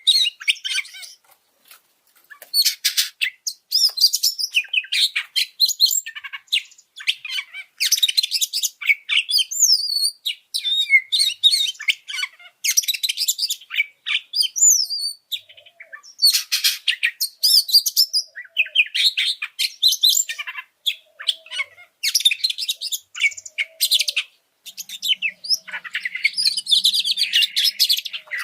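Oriental magpie-robin (kacer) singing a heated, fired-up song: phrase after phrase of rapid high notes, some sliding in pitch, broken by short pauses.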